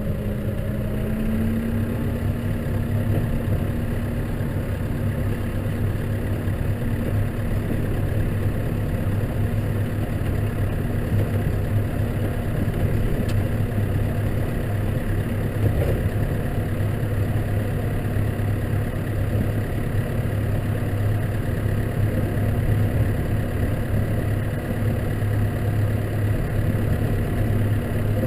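Case tractor's engine running steadily, its pitch stepping up slightly about a second in and then holding even.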